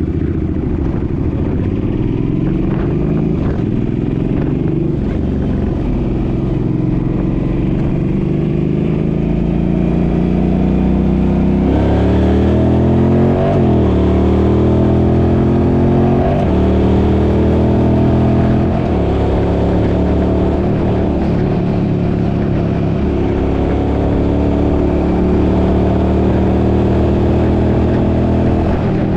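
The Suzuki's engine pulling under acceleration, its pitch rising and dropping back at each upshift several times through the middle, then settling into a steady cruise, with low wind rumble. It runs with no rattle.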